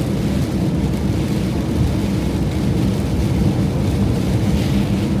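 Steady low rumble of a van driving, heard from inside the cab, with an even engine hum.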